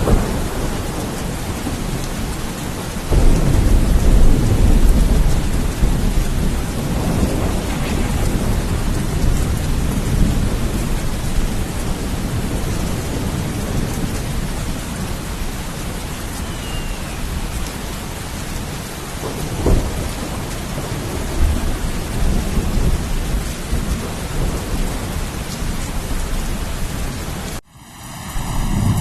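Steady rain falling during a thunderstorm, with low rumbling thunder. A loud roll of thunder starts suddenly about three seconds in and lasts a few seconds. Near the end the sound cuts out abruptly for about a second, then comes back.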